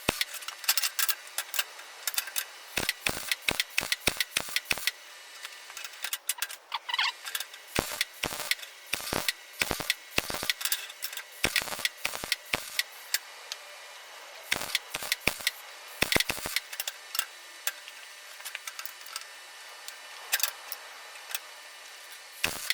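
Electric arc welding on an exhaust pipe: an irregular, fast crackling and spitting from the arc in short runs, with a couple of brief pauses between runs.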